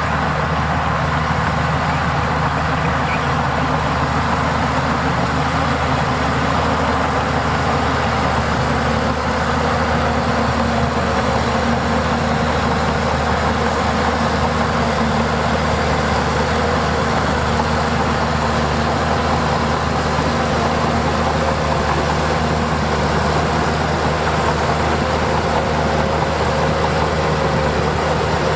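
Diesel engine of heavy earthmoving equipment running steadily at an even pitch.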